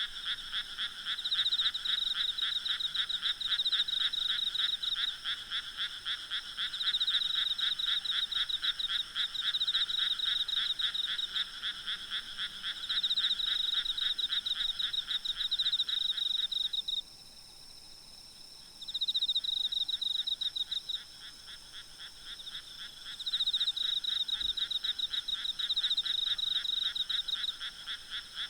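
A night chorus of many frogs croaking at once in rapid pulsing calls, with faint insects trilling steadily above them. The chorus drops out abruptly about two-thirds of the way in, and the calls start up again a couple of seconds later.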